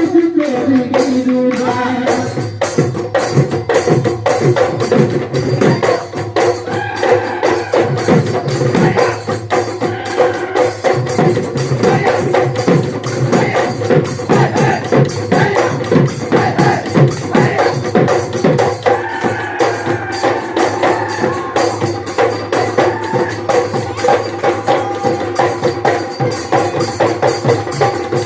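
Bihu husori folk music: fast, steady percussion of drum and small clapping or jingling instruments driving an even rhythm, with a held melodic line over it.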